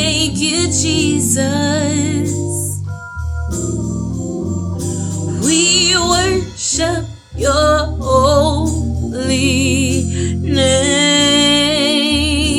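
Gospel worship music: sustained organ chords and a low bass line under singing with a heavy vibrato.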